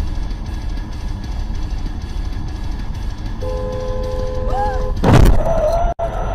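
Steady low vehicle rumble. A car horn sounds a steady two-note honk for about a second and a half, then a loud crash impact comes about five seconds in.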